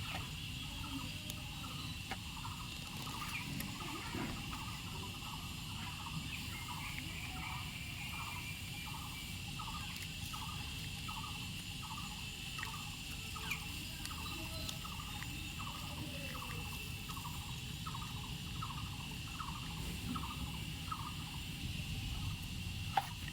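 Outdoor insect sound: a steady high drone with a short chirping call repeated about twice a second, over a low rumble.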